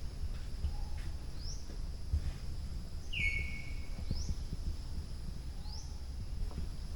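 Birds calling in tropical forest: a short rising whistle repeated about every second and a half, and one longer clear whistled note about three seconds in, over a steady high insect drone and a low rumble.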